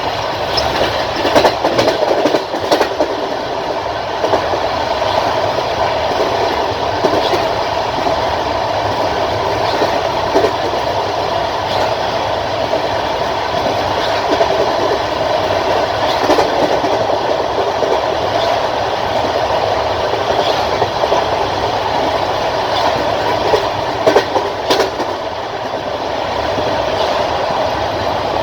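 Passenger train coach running along the line, heard from its window: a steady rumble of the wheels on the rails, with a sharp clack from time to time as the wheels pass over rail joints.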